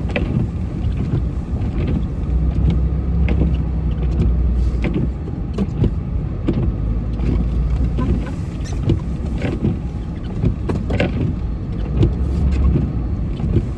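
A vehicle driving, heard from inside the cab: a steady low engine and road rumble that swells for a few seconds at a time, with scattered short knocks and clicks.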